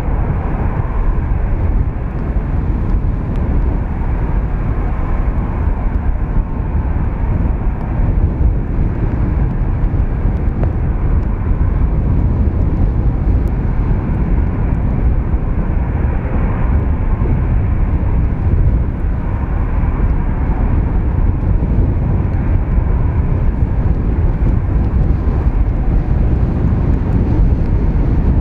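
Airbus A320-214 jet engines (CFM56) heard through strong gusty wind buffeting the microphone, a loud, steady, deep rush with no distinct tones.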